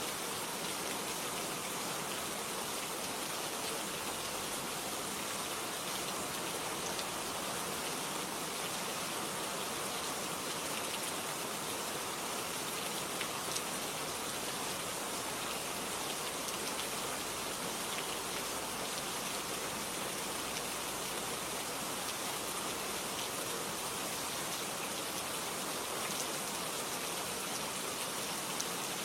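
Steady rain falling, an even wash of noise with scattered light drop ticks.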